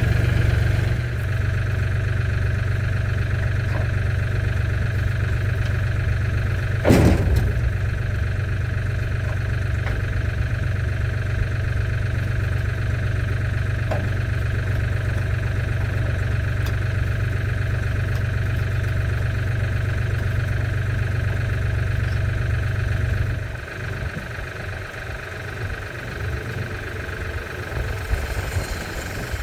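An engine idling steadily with a single loud knock about seven seconds in; the engine's low hum drops out about 23 seconds in.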